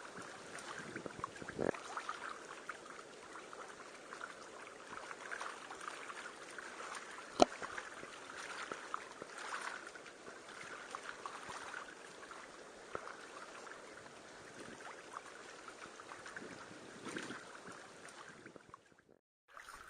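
Canoe being paddled: paddle strokes splashing and water dripping and lapping, with one sharp knock about seven seconds in. The sound drops out briefly near the end.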